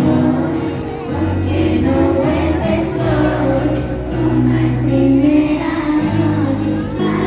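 Live concert music: a song with singing over sustained bass notes and regular cymbal strikes.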